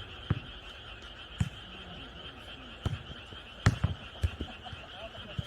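A steady night chorus of frogs calling, with several sharp thuds of a jokgu ball being kicked and bouncing on the court. The loudest thuds come a little over halfway through.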